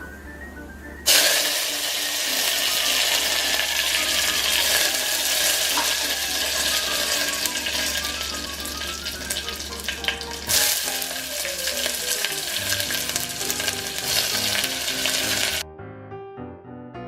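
Hot oil sizzling loudly in a pan as food fries. It starts suddenly about a second in, breaks off briefly past the middle, then sizzles again and stops shortly before the end.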